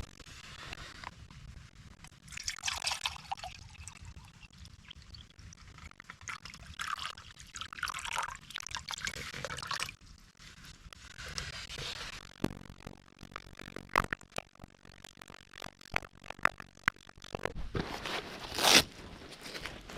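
Camp gear and a small metal camp stove being handled: rustling and scraping, then scattered sharp clicks and knocks, the loudest near the end.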